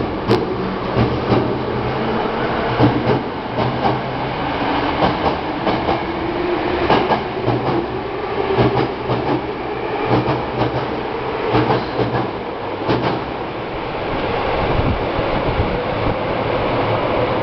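Hankyu electric commuter train pulling out of an underground station: repeated clacks of the wheels over rail joints as the cars pass, with a motor whine rising in pitch as it gathers speed.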